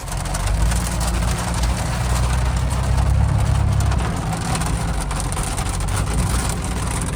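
Jeep TJ on the move: a steady low engine drone with road noise.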